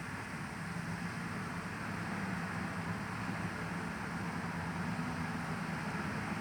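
Steady white-noise sleep sound: an even hiss over a low, constant rumble, without change or break.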